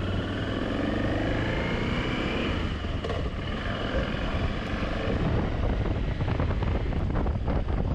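Motorcycle engine running while riding, its pitch rising and falling as the throttle changes.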